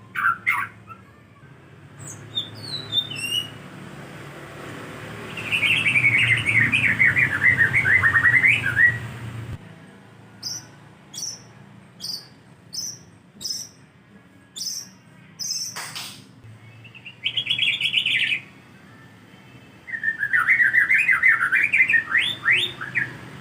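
White-rumped shama (murai batu) singing. Loud, rapid warbling phrases alternate with a run of short, high, evenly spaced notes, with a single sharp click about two-thirds through.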